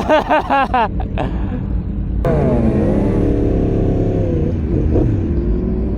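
Motorcycle engine running under a low steady rumble. About two seconds in a higher engine note comes in suddenly, dips in pitch, then holds steady. A brief voice comes at the very start.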